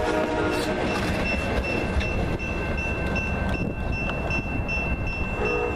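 Amtrak Downeaster passenger train rumbling past at close range on jointed rail, clickety-clack of its wheels fading as it pulls away. A grade-crossing warning bell rings over it with a steady, evenly repeating ring.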